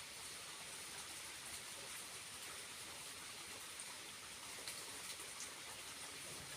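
Small waterfall running, a steady faint hiss of falling and splashing water with a few scattered droplet ticks.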